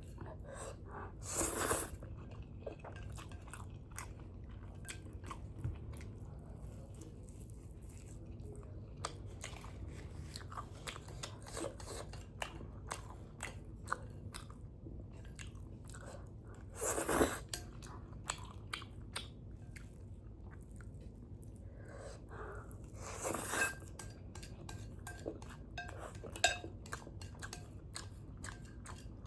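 Close-miked eating of spicy ramen noodles: steady chewing and wet mouth clicks, with a few clinks of cutlery on the bowl. Three louder, brief rushes of noise, about one and a half seconds in, midway and about two-thirds through, are noodles being slurped.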